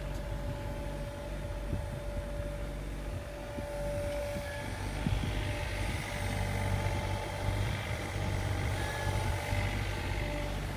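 Sany SY35U mini excavator's diesel engine running steadily with a low hum and a steady whine, growing louder from about halfway through.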